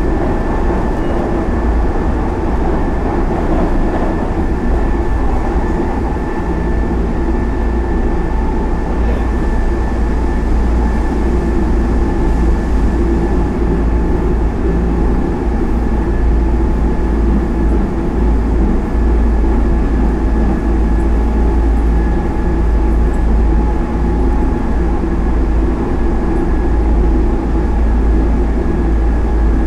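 Hanshin Line express train heard from inside a passenger car while running at speed: a steady low rumble with a thin steady whine above it.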